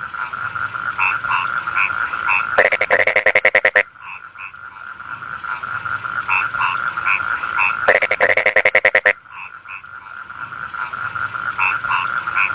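Rice-field frogs calling in a chorus. Twice, a loud, fast-pulsed croaking call comes about five seconds apart, over a steady high trill and scattered shorter croaks.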